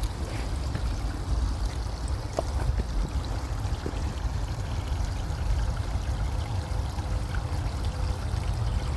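Wind buffeting the microphone: a steady, fluctuating low rumble, with a few faint ticks.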